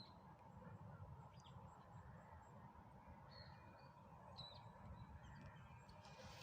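Near silence: faint outdoor ambience with a low rumble and a handful of brief, distant bird chirps.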